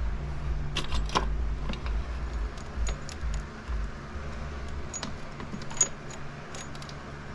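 Metal motorcycle drive-chain links clinking and rattling in irregular clicks as the chain is threaded through and laid in place, over a steady low hum.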